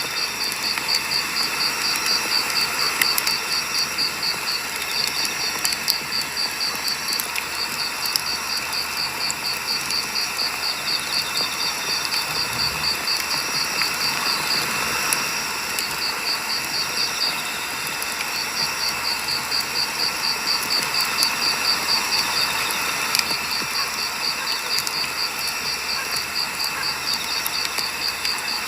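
Firewood burning in an open campfire, with a steady crackle and scattered sharp pops. A cricket chirps in a fast, even trill that breaks off briefly a few times.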